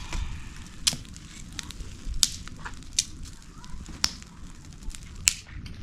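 Wood fire crackling, with sharp pops about once a second over a low rumble.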